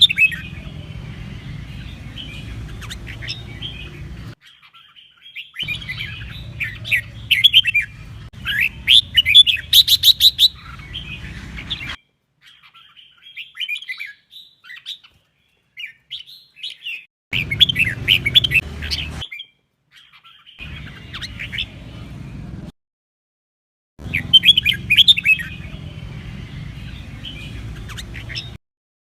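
Red-whiskered bulbul singing in short bursts of quick chirping phrases, over a low background hum. The recording is spliced, cutting abruptly to silence several times.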